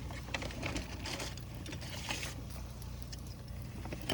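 Wood fire burning in a DIY rocket stove: scattered crackles and pops over a steady low rumble.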